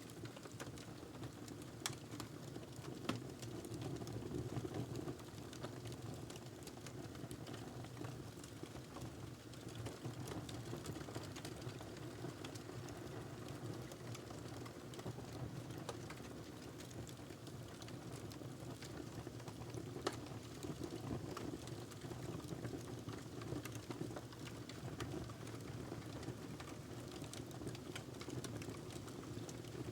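Wood fire crackling in a fireplace: a steady low rush of flame with a constant scatter of small snaps and a few louder pops.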